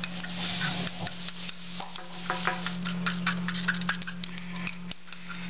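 Quick small clicks and scrapes of hand-feeding African grey parrot chicks, over a steady low hum.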